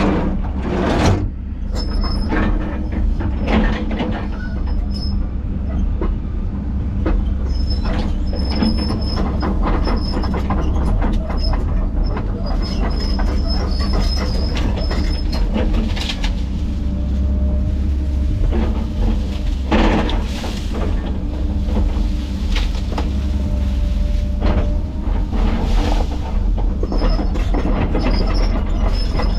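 Heavy tracked land-clearing machine running steadily with a deep diesel rumble. High metallic squeals come and go, with scattered knocks and clanks throughout.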